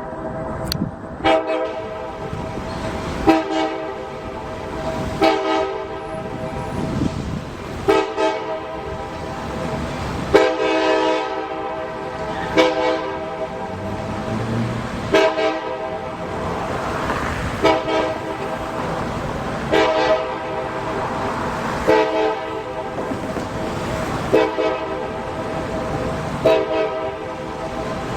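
Locomotive air horn sounding a long series of blasts, each about two seconds long with short breaks between, over the rumble of a passing train.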